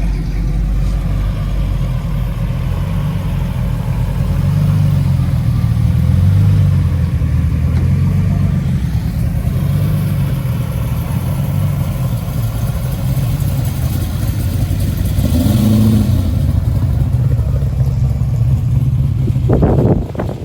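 Car engine running with a steady low rumble that swells and eases a little. It breaks off abruptly just before the end.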